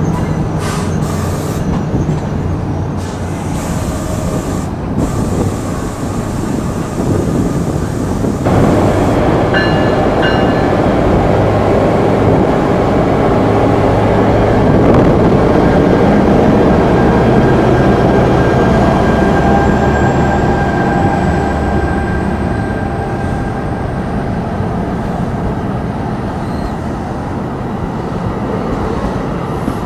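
NJ Transit multilevel commuter train hauled by an ALP-45DP locomotive passing close by: a steady rumble of wheels on rail, loudest about halfway through as the locomotive's diesel engines go by. A faint rising whine comes in later.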